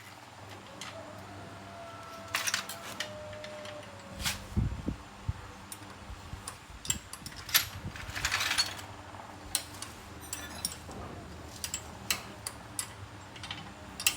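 Hand tools and metal motorbike parts clinking and clicking irregularly during repair work on a Honda Win 110, with a dull thump about four seconds in and a short rasp a few seconds later.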